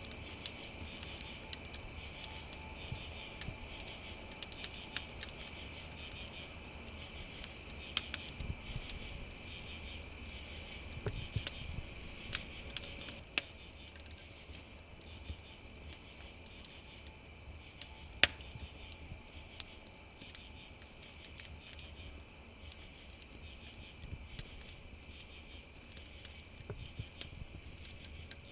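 Crickets chirping in a steady chorus over a crackling wood fire, whose pops and snaps come at random; one pop about 18 seconds in is the loudest.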